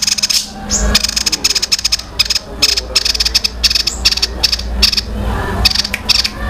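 Small songbird singing a fast, dense chattering trill of sharp chips in long runs with short breaks, like fighting tree sparrows, over a steady low hum.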